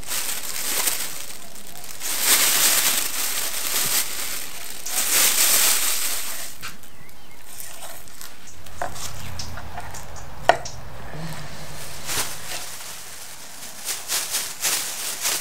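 A kitchen knife slicing and scraping along a fish fillet on a wooden cutting board as it is skinned, mixed with a plastic bag rustling, in several noisy stretches with a single sharp knock about ten seconds in.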